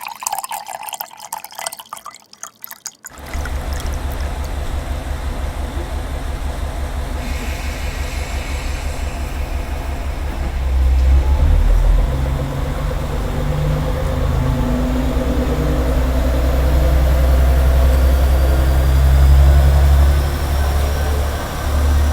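A vehicle's engine running with a low, pulsing rumble that starts suddenly about three seconds in and grows louder around ten seconds in. Before it there are a few seconds of irregular crackling noise.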